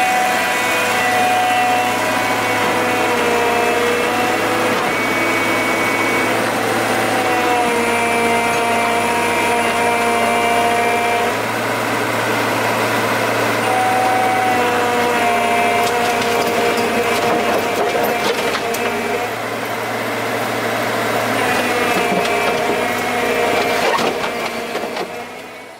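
Two-stroke chainsaw running and cutting through wood, its engine pitch dropping under load and rising again every few seconds; the sound cuts off suddenly near the end.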